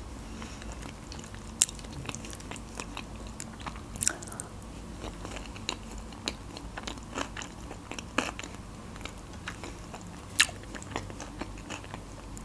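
A person chewing food with her mouth closed: soft wet chewing with scattered sharp mouth clicks and smacks, a few of them louder.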